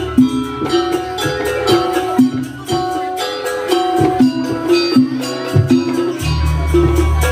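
Traditional Banyuwangi folk music for a barong/jaranan dance: pitched melodic notes that change every fraction of a second over a steady percussion beat.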